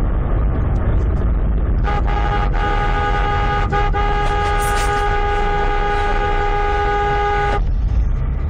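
A car horn sounds over steady low road and engine rumble: a couple of short honks about two seconds in, then held for about four seconds before it cuts off.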